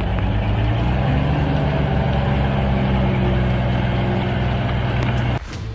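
Heavy truck engine running under load, its pitch rising a little about a second in and then holding steady, until the sound cuts off abruptly near the end.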